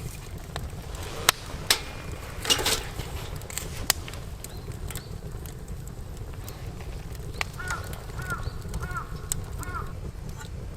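Campfire crackling with scattered sharp pops over a steady low rumble. Near the end a bird calls about five times in quick succession.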